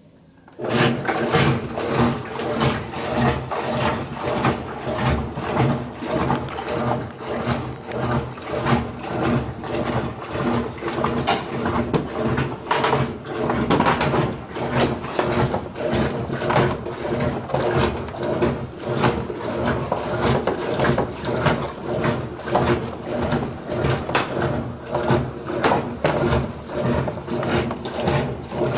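Washing machine running its heavy-soil wash cycle: the motor starts suddenly about half a second in and keeps running with a steady hum and a rapid, uneven train of knocks.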